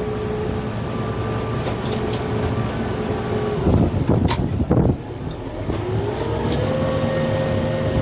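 Kubota M6-141 tractor's diesel engine running steadily, with a loud burst of crashing and cracking about four seconds in as brush and wood are torn out by the root grapple; afterwards the engine revs up to a higher steady speed.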